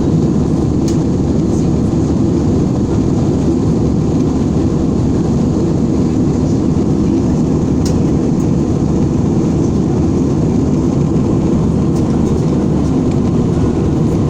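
Airliner cabin noise in flight: a loud, steady, low rush of engine and airflow that doesn't change, with a few faint ticks.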